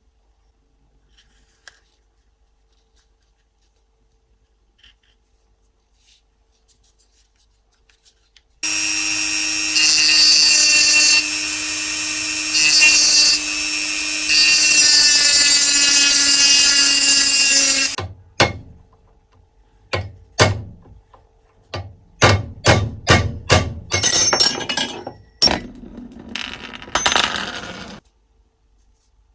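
An electric power tool runs for about nine seconds, with a steady motor hum that sinks slightly under load and a harsh high hiss. It is followed by a series of short bursts and strikes over the next ten seconds.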